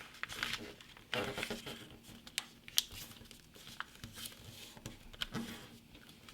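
A sheet of printer paper being folded and creased by hand: rustling and crinkling with scattered sharp ticks as the paper is pressed flat.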